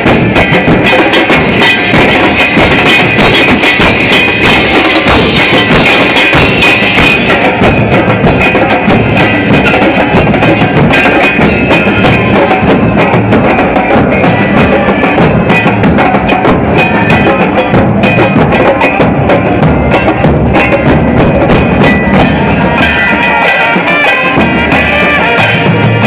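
Football supporters' drums beating fast and loud while the crowd chants.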